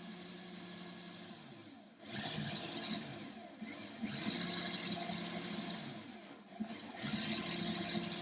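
Cordless drill boring through aluminium body panel: the motor's hum falls in pitch and stops about two seconds in, then three bursts of drilling as the bit cuts into the metal.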